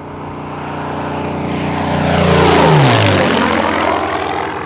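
Yak-3 propeller fighter making a low, fast flyby: its piston engine grows louder as it approaches, peaks as it passes about three seconds in, then drops sharply in pitch as it moves away.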